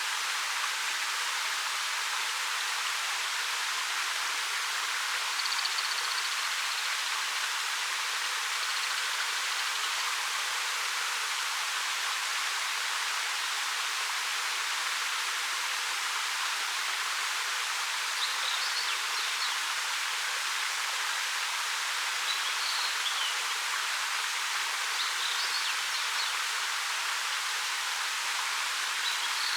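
Steady, even rush of a 13 m waterfall pouring over rock. Faint short bird chirps come through over it a few times, about a third of the way in and again in the second half.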